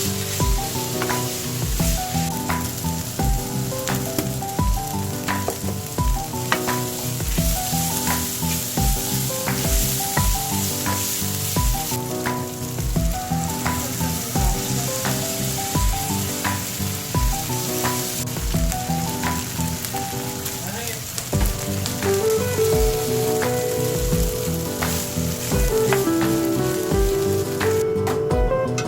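Food sizzling in a frying pan, a steady hiss that stops about a second before the end, under background music with a steady beat.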